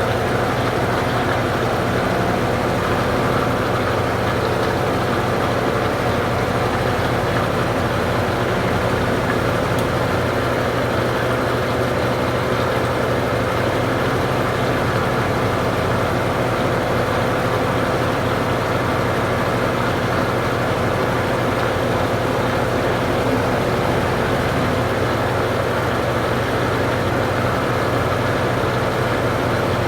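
Consul Supercargo CWL08C top-loading washing machine running steadily, with a constant motor hum and a steady tone.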